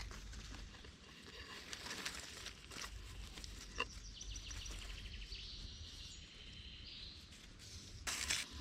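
Faint outdoor ambience with scattered small clicks and crackles and high bird calls, including a quick trill in the middle, and a brief rustle near the end.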